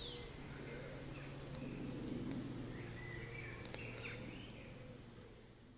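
Woodland birds chirping and calling in scattered short notes over a steady low background hum, fading away near the end.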